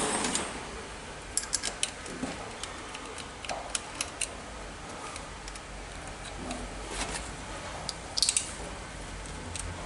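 Light metallic clicks and taps in small clusters a few seconds apart, from screws and hand tools being handled while parts are fitted back onto a steering column.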